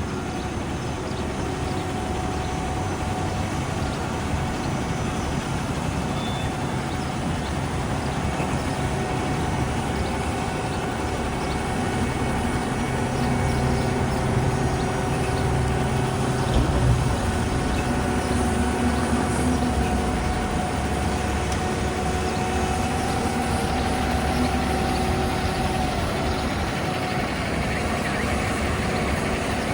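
Heavy diesel paving machinery running steadily, a continuous engine rumble with a low hum. The rumble swells briefly about two-thirds of the way through.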